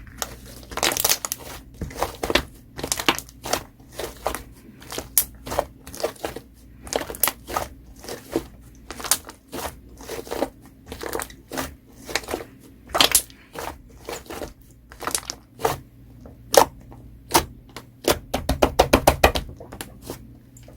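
Slime being pressed and squeezed, making crackling pops about twice a second, with a quick run of pops near the end.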